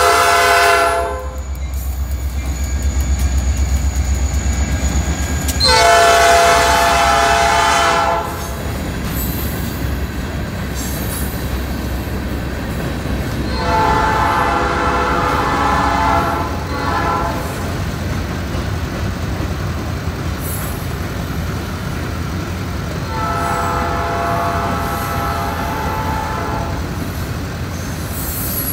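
Freight train passing a grade crossing: a diesel locomotive's horn chord cuts off about a second in as the engine's deep rumble goes by, then the horn sounds again farther off, long, long, short, long, the grade-crossing signal for the next crossing. Under it, loaded hopper cars roll past with a steady rumble and clickety-clack of wheels over rail joints.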